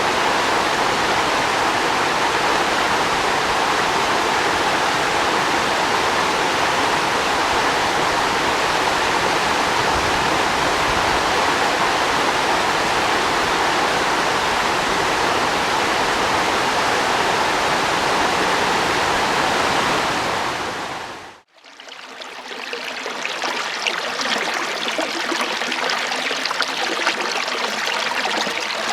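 Flowing water rushing steadily. Near the end it fades away to nothing for a moment and a lighter, trickling water sound comes in.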